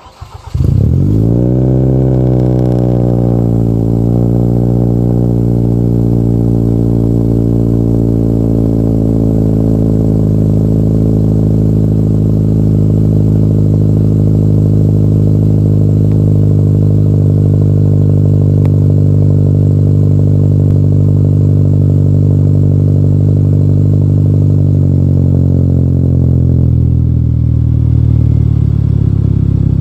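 Hyundai Sonata 2.0T turbocharged four-cylinder through an aftermarket turboback exhaust (downpipe, high-flow catalytic converter midpipe, Injen cat-back) cold-starting: it fires about half a second in, flares up, then settles over a few seconds into a steady fast cold idle. Near the end the idle drops a step lower.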